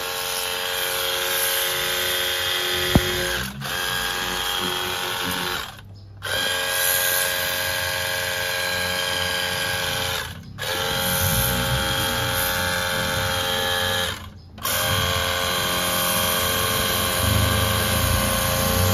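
A small electric motor, like a power tool's, whining steadily at a fixed pitch, cutting out abruptly four times for a split second.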